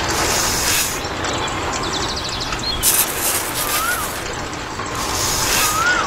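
Sand sliding off a small metal toy shovel into the drum of a miniature cement mixer: short rustling pours, one at the start and others about three and five seconds in.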